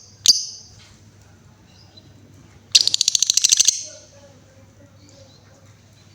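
Female lovebird calling: a single sharp high chirp, then about three seconds in a fast, rattling trill of rapid clicks lasting about a second, the chattering 'ngekek' song.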